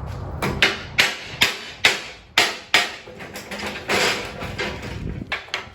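A hammer striking a chisel against a torch-cut 1/4-inch steel plate, knocking the slag off the cut edge. There are about ten sharp metallic blows at an uneven pace, each ringing briefly, and the plate rings loudly.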